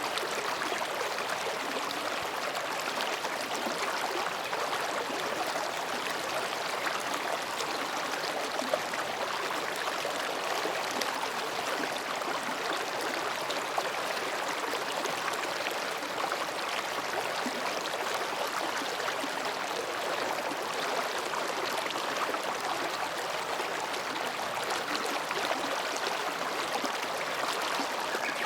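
Mountain stream babbling steadily over rocks, an even rushing-gurgling water sound, with two brief clicks about nine and fourteen seconds in.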